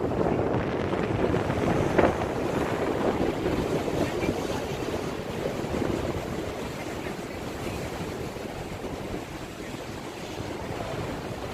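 Wind buffeting the microphone over a steady rush of water from a cruise boat's passage, with a brief knock about two seconds in.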